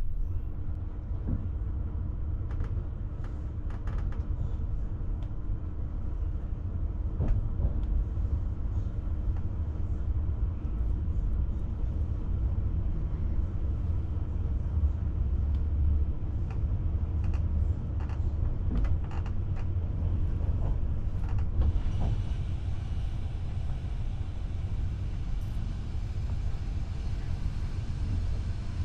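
Steady low rumble of a PKP Intercity passenger train running along the track, heard from aboard, with scattered clicks and knocks. About three quarters of the way through, a brighter hiss suddenly joins the rumble and stays.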